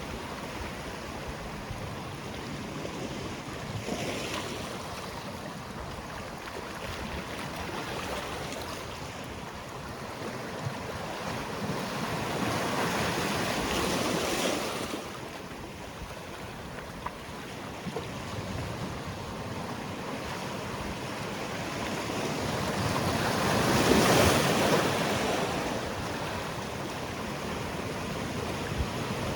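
Sea waves breaking on a rocky shore, a steady wash with swells as sets roll in, the largest about halfway through and another, louder, near the end.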